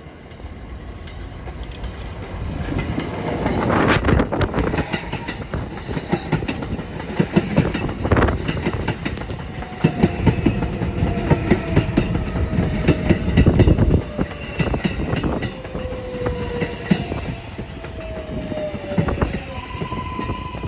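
R188 subway train on the 7 line running past on elevated track. A rumble builds over the first few seconds and eases off after about fourteen seconds, with wheels clattering over rail joints. Thin wheel squeals fall in pitch in the second half.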